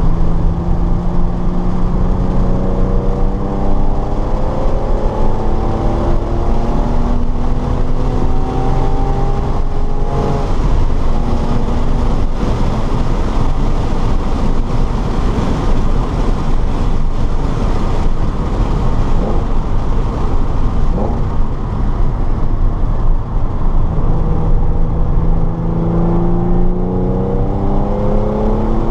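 Car engine lapping a road course under hard acceleration. The engine note climbs in pitch through the gears, drops off into a rushing noise in the middle, then climbs again near the end.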